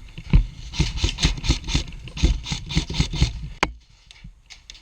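Running footsteps, about four strides a second, with clothing and kit rubbing, as a player charges forward. The steps stop and a single sharp click follows.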